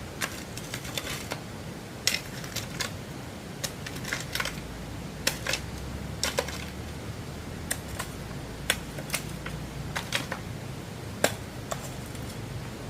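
Irregular sharp taps and clicks, a few each second, over a low steady hum.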